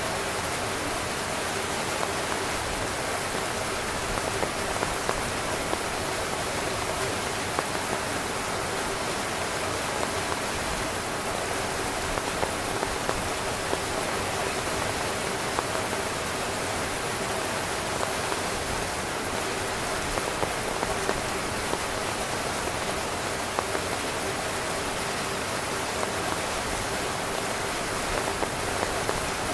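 Heavy rain drumming steadily on a camping tent's fabric, a dense even hiss with many individual drops ticking sharply through it.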